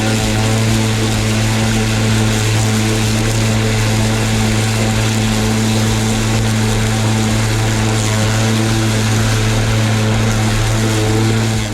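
Parkside Performance PPRMA 40-Li A1 40 V cordless lawn mower running with its blade spinning: a steady, even hum over a broad whoosh.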